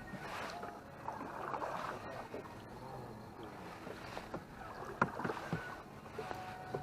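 A small fishing boat being paddled, with water sloshing and scattered knocks and clicks against the hull; the sharpest click comes about five seconds in.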